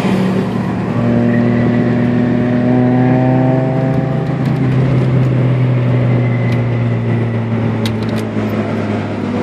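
Nissan B13's GA16 four-cylinder engine heard from inside the cabin, pulling under way on a track. Its note changes about a second in and then holds at fairly steady revs, with a few faint clicks near the end.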